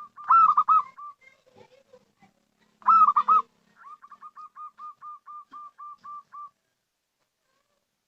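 Zebra dove (perkutut) cooing: two loud cooing phrases about three seconds apart, followed by a quicker run of quieter, evenly spaced coo notes, about five a second, that stops about a second and a half before the end.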